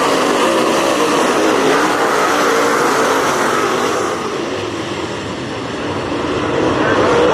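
Dirt-track race car engines running hard at racing speed, their pitch wavering up and down. The sound drops off about halfway through, then builds again as the cars come back around.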